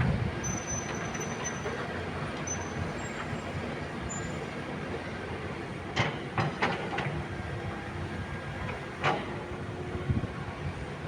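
Caterpillar 306E2 mini excavator running steadily, its engine drone broken by a few sharp metallic knocks about six seconds in and once more near nine seconds.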